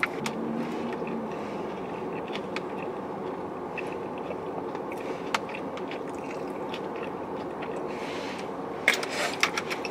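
A person eating, chewing and biting food over a steady low background hum. There are scattered small clicks, with a quick cluster of them near the end.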